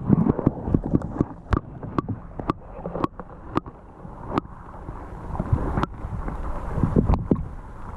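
Scattered knocks and clicks, roughly every half second, over a steady low rumble and water sloshing, as gear is handled in a small boat.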